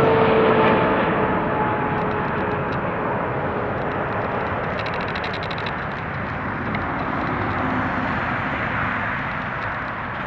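Jet airliner passing and moving away, its engine roar slowly fading, with a whining tone that drops in pitch in the first couple of seconds.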